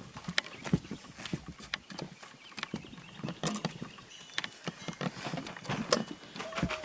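Irregular light knocks and taps, a few a second, with a brief wavering tone near the end.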